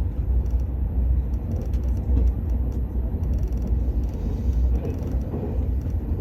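Cabin noise of the Al Boraq high-speed train running at speed: a steady low rumble with an even rushing hiss over it.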